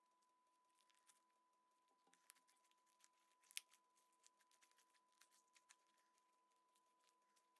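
Near silence: faint scattered small clicks and ticks, the sharpest about three and a half seconds in, over a steady faint high whine.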